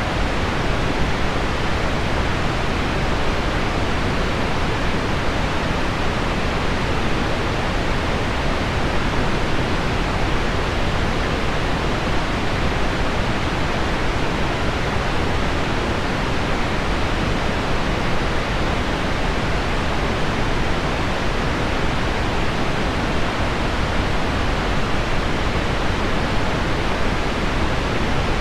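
Steady, even hiss of pink noise blended with heavy rain on window glass, with no single drops or knocks standing out.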